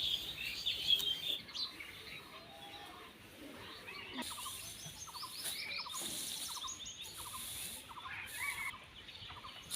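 Birds chirping and calling, with many short chirps and quick trills throughout.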